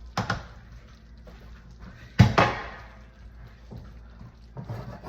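Kitchen handling knocks: a couple of light knocks, then one loud bang about two seconds in with a short ringing decay, and a few softer knocks near the end.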